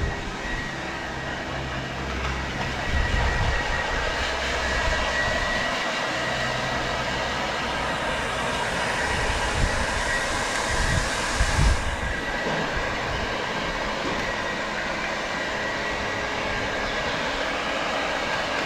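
Blow dryer running steadily, with a faint high whistle, while drying a wet dog's coat after a bath. A few low bumps come about three seconds in and again about eleven seconds in.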